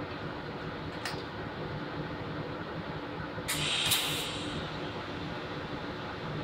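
Steady hum of a TIG welding setup, with a brief hissing crackle from the TIG arc on galvanized steel about three and a half seconds in, lasting under a second. A faint click comes about a second in.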